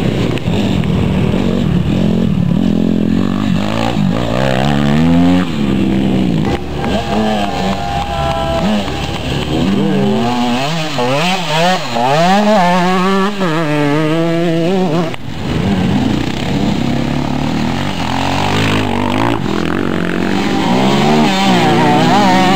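Motocross motorcycle engines revving hard, the pitch repeatedly rising and falling as the bikes accelerate and back off, with more than one engine heard at once at times.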